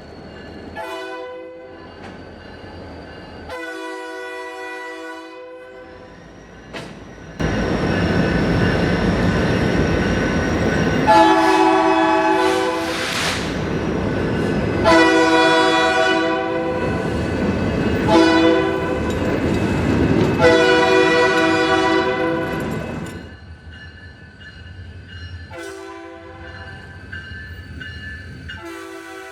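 A diesel freight locomotive horn sounds a series of blasts, short ones and long ones. About seven seconds in, the loud rumble of the passing EMD diesel locomotives (an SD40-2 and a GP39-2R) sets in suddenly, with more long blasts over it, and fades after about fifteen seconds. Horn blasts go on after it fades.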